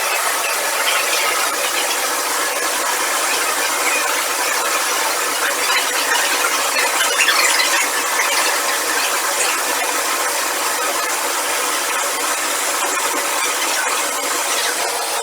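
Steady, dense mechanical din with rattling and squealing, typical of machinery running on a factory floor.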